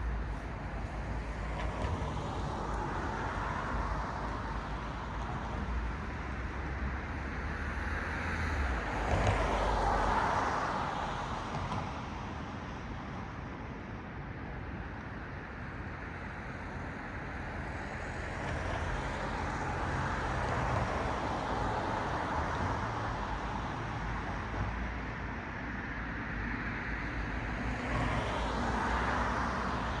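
Road traffic: cars passing one after another, each a swell of tyre and engine noise over a steady low rumble, the loudest pass about ten seconds in.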